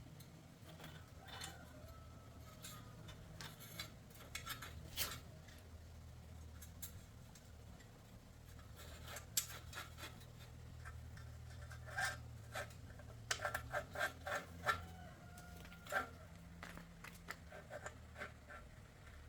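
Hand work on old bicycle parts: scattered sharp clicks and scrapes of tools and metal being handled, with a quick run of clicks about two-thirds of the way through, over a low steady hum.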